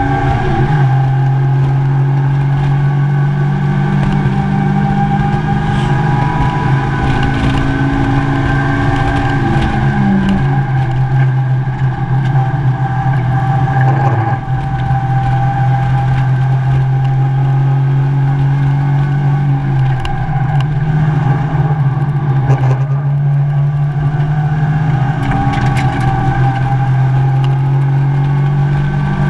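Mazda MX-5 race car's four-cylinder engine running hard at high revs, heard from inside the caged cabin on track. The engine note holds steady, with brief dips in revs a few times, over road and wind noise.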